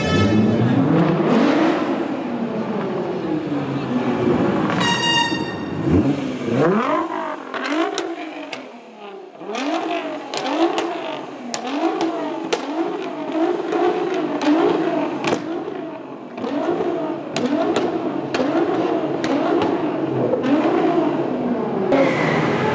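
Nissan GT-R R35's twin-turbo V6 revving: one rise and fall at first, then a sharp climb about six seconds in, then blipped over and over, about once a second, with sharp cracks among the revs. A brief high tone sounds about five seconds in.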